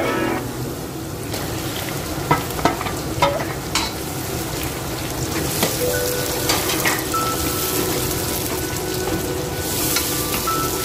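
Onions frying in hot oil in a non-stick wok with a steady sizzle. A wooden spatula stirs them, knocking and scraping against the pan several times, and chopped tomatoes are stirred into the sizzling oil later on.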